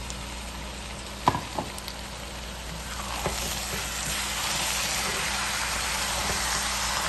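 Chopped tomatoes and onions frying in hot ghee and oil in a pan, stirred with a spatula. The sizzle swells louder and denser about halfway through, and there is a sharp knock about a second in.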